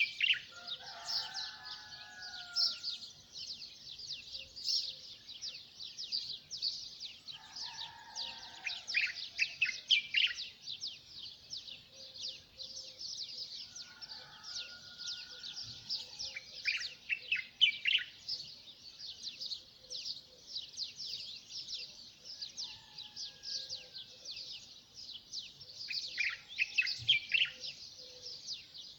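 Songbirds chirping continuously in a dense chorus of rapid high chirps, louder in clusters three times. A few lower whistled phrases from another bird come in now and then.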